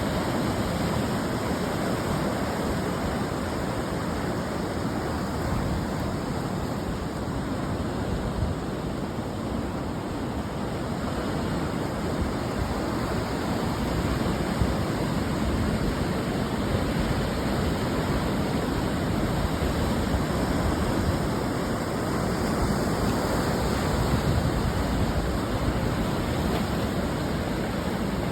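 Ocean surf washing onto the shore, a steady rush of broken water that swells and eases slowly over several seconds.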